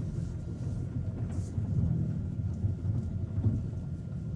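Hyundai Avante N's turbocharged four-cylinder engine and exhaust giving a low, uneven rumble as the car creeps along at parking speed.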